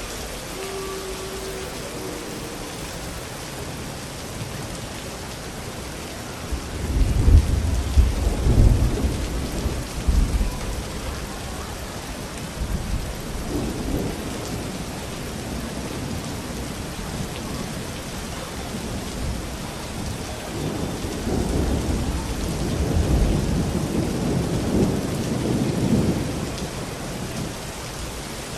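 Steady rain falling, with two long rolls of thunder rumbling through it: the first and louder one about a quarter of the way in, the second later, building and fading over several seconds.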